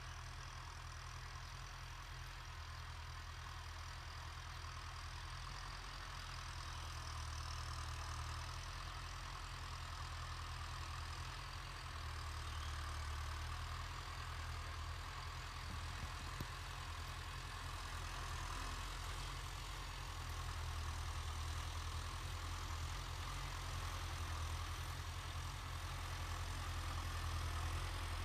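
Tractor diesel engine running steadily with a low drone, growing slightly louder over the later part.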